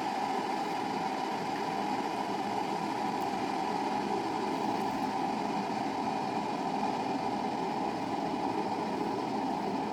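Water coming to the boil inside an electric kettle: a steady bubbling noise.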